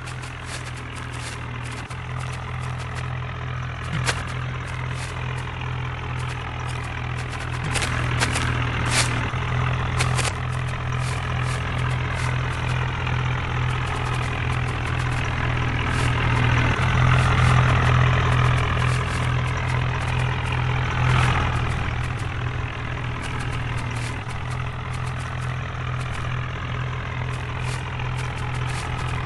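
HMT tractor's diesel engine running steadily with a low hum, growing louder toward the middle and then easing off, with a few sharp knocks and rattles.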